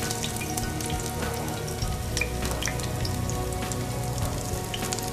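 Potato meatballs shallow-frying in oil in a stainless steel pan: steady sizzling with scattered pops and crackles.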